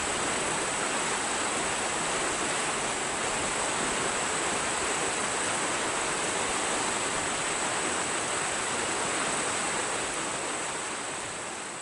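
Jet airliner engines running with a steady roar and a thin, high, steady whine, fading away near the end.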